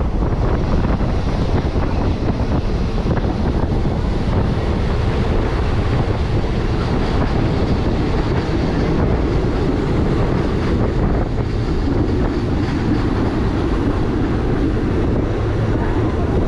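Steady rumble of a moving passenger train with wind buffeting the microphone, heard from on board.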